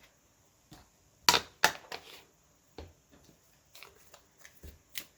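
Paper and craft materials being handled: two sharp taps just over a second in, then scattered lighter clicks and rustles.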